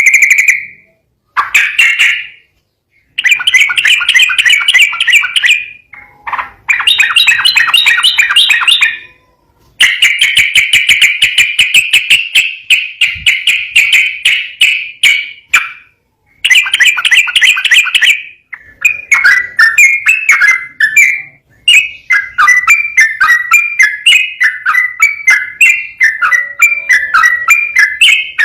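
Yellow-vented bulbul (trucukan) singing its long, rapid-fire song: bursts of fast repeated chattering notes with short silent breaks between them, running into an unbroken jumble of varied phrases in the last third.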